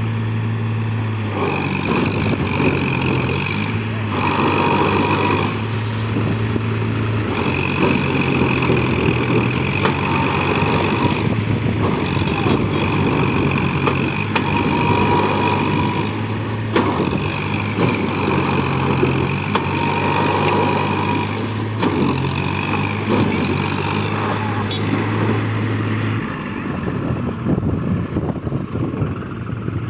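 Heavy diesel tractor engines running under load, their low hum shifting in pitch now and then. The low hum drops out about 26 seconds in.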